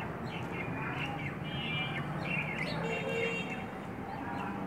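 Small birds chirping over and over in quick, high twittering calls, over a steady low background hum.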